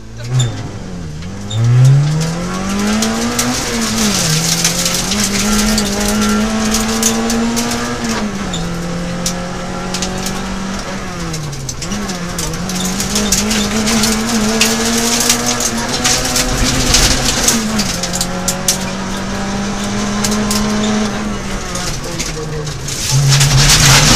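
Peugeot 106 XSi rally car's engine, heard from inside the cabin, pulling away hard from a stage start and revving through the gears. The pitch climbs in each gear and falls at every shift, about five shifts in all, over dense tyre and road noise. Near the end it settles onto a steady lower note as the overall noise grows louder.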